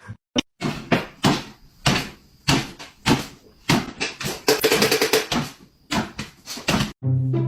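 A fast run of sharp knocks or bangs, two to three a second, bunching together in the middle, that stop suddenly near the end.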